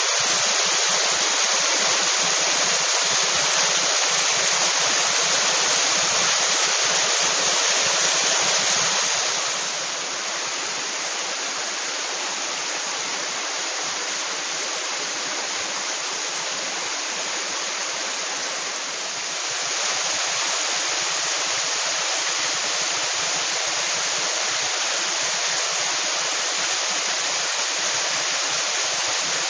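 Waterfall water rushing and splashing in a steady, loud roar, somewhat softer for about ten seconds in the middle.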